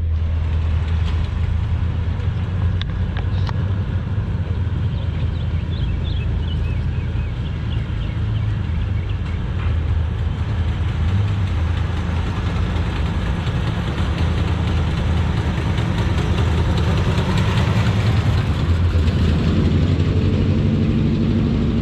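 A car engine idling with a steady low rumble, growing a little louder near the end.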